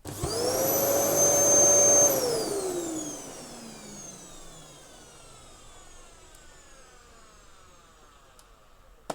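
Dyson DC07 upright vacuum cleaner switched on: its motor whines up to full speed within a fraction of a second, runs steadily for about two seconds, then is switched off and spins down, the whine falling slowly in pitch and fading over the next several seconds. A short click near the end.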